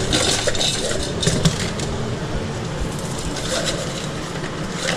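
Food-truck kitchen clatter: utensils, dishes and packaging being handled, with sharp clicks and clinks in the first second and a half, over a steady hum.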